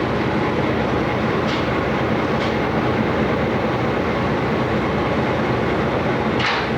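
Motor ship's engine drone heard on board: a steady, loud mechanical rumble with a low hum. Short hisses come about one and a half seconds in and a second later, and a longer one comes near the end.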